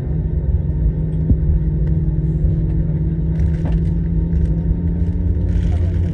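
Airbus A321 jet engines and airframe, heard from inside the cabin as a loud, steady low rumble with a steady engine hum over it. Short bursts of higher hiss come in a little past halfway and again near the end.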